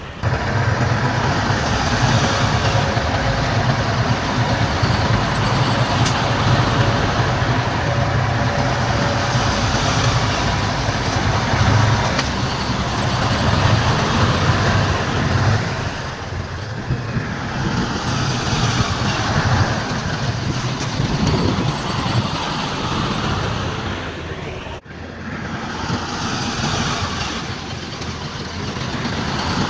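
Heavy diesel earthmoving machinery, a bulldozer and dump trucks, running under load: a steady low engine drone over dense rumbling noise. The sound drops out suddenly for a moment about 25 seconds in.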